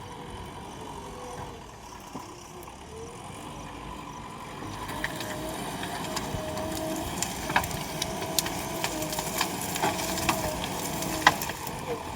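JCB 3DX backhoe loader's diesel engine running with a wavering tone. It grows louder about four or five seconds in, and a scatter of sharp clicks and knocks follows through the second half.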